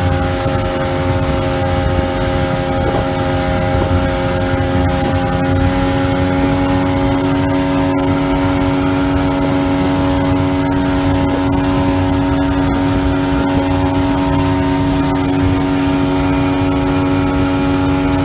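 Outboard motor of a small boat running steadily under way, an even engine drone whose pitch rises slightly about five seconds in and then holds, over a constant rushing noise.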